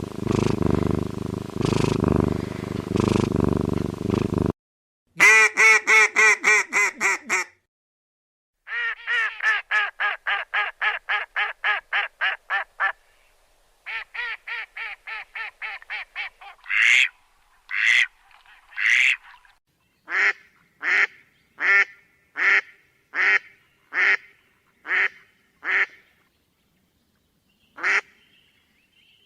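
A rough, pulsing animal sound that stops about four and a half seconds in. It is followed by a bird calling in quick runs of about four calls a second, then in single calls a little over half a second apart.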